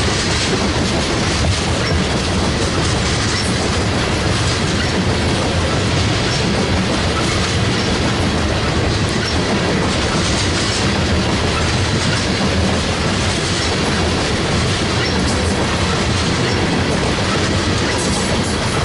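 Freight train cars rolling past, steel wheels clattering over the rail joints in a steady, loud run of noise.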